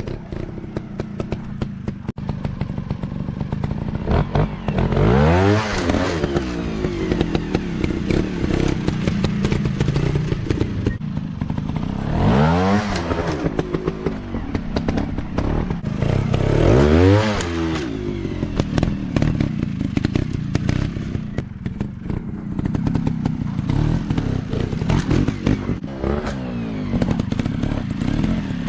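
Dirt bike engines running on a trail, revving up and falling back three times, about five, twelve and seventeen seconds in, with clattering and knocks throughout.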